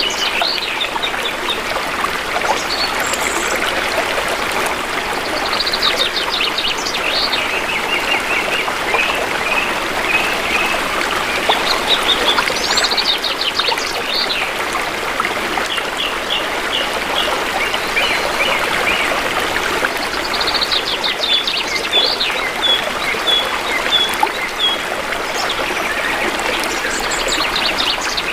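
Shallow river water flowing and trickling steadily, with forest birds singing over it: fast trilled phrases and runs of short repeated chirps that recur every few seconds.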